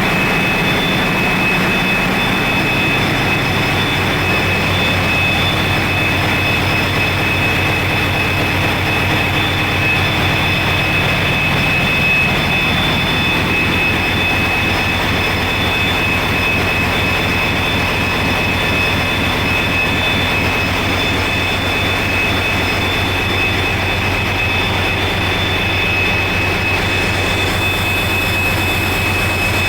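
Large Wärtsilä 18V46 medium-speed diesel generator engines running steadily in a power plant engine hall: a loud, even low hum with a steady high-pitched whine over it.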